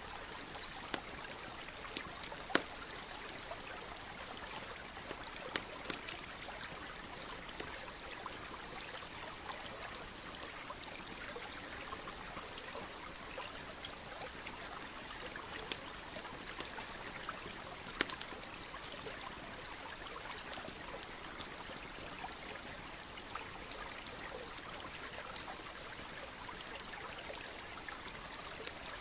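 Steady rushing of a small stream with a campfire crackling over it: irregular sharp pops and snaps, a few of them louder, about two and a half, six and eighteen seconds in.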